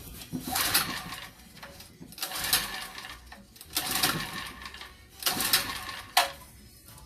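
Recoil pull-starter of a 2.4 hp UNITEDPOWER portable generator pulled about four times, each pull a short rasping whir, with a sharp click near the end. The engine does not fire on any pull: it is a no-start.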